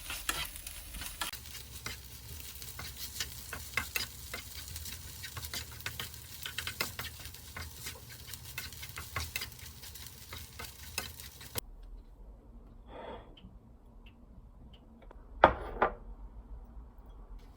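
Food sizzling in a frying pan, with frequent clicks of a utensil stirring it. It cuts off suddenly about twelve seconds in, and a quieter stretch follows with a soft knock and then two louder knocks near the end.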